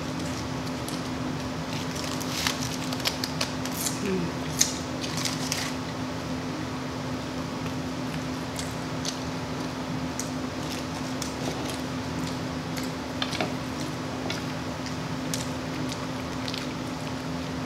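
Close-miked eating of a fast-food burger and fries: scattered wet mouth smacks and clicks of chewing, busiest a few seconds in, over a steady low hum.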